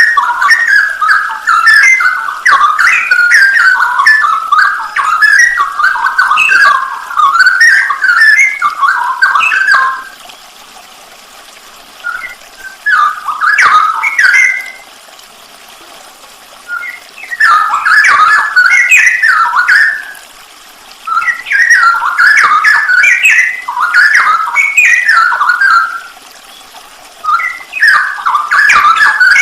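Straw-headed bulbul (cucak rowo) singing: loud, rich warbled phrases lasting several seconds, broken by short pauses of a second or two several times.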